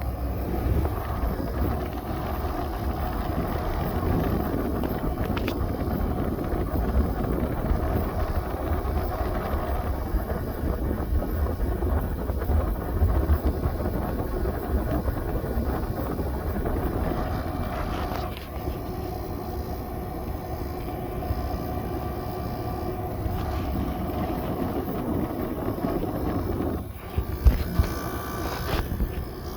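Samsung window air conditioner running: its fan blows air with a steady rushing hum and a faint steady tone above it. The level dips briefly near the end, with a few sharp knocks.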